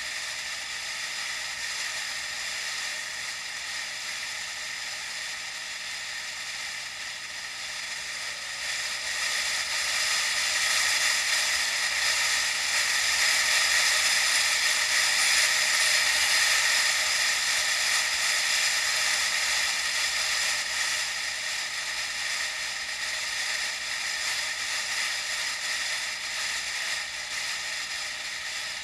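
Steady hissing riding noise from a bicycle ride, picked up by an action camera; it swells about nine seconds in and eases off after about twenty.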